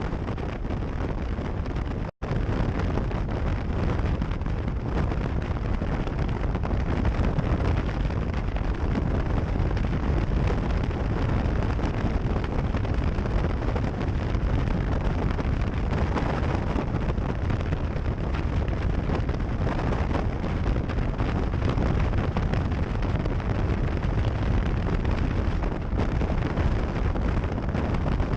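Heavy wind buffeting an action camera's microphone over the rumble of a moving vehicle, a steady roar heaviest in the bass. It cuts out for an instant about two seconds in.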